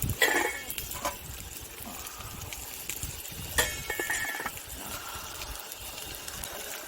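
Two clinks of metal cookware, each with a brief ring, one just after the start and one about halfway through, with a few lighter knocks in between, over a low outdoor rumble.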